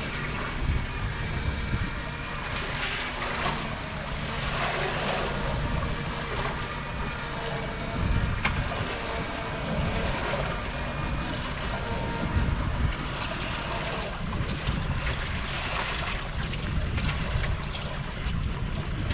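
Wind buffeting the microphone over waves slapping against a small fishing boat's hull at sea, with a steady low rumble and a few faint knocks.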